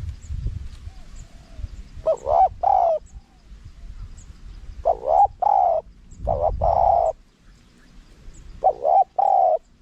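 Spotted dove cooing: four short phrases of two or three low coos each, spaced a few seconds apart, over a low rumble.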